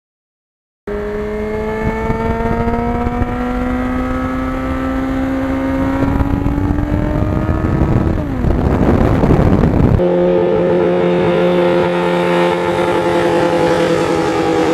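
1991 Yamaha FZR's inline-four engine under way on the road, its pitch rising slowly as the bike accelerates. About eight seconds in the pitch drops into a rush of wind noise, and at about ten seconds it changes abruptly to a steady cruising tone. Wind buffets the microphone.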